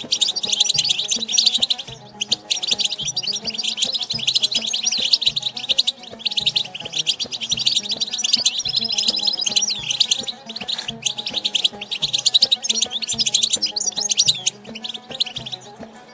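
European goldfinch singing a rapid, continuous twittering song of quick, high notes, breaking off briefly about every four seconds.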